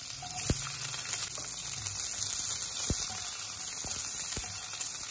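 Sliced garlic and shallots sizzling in hot oil in a wok, a steady hiss, with a few light knocks of a wooden spatula stirring against the pan.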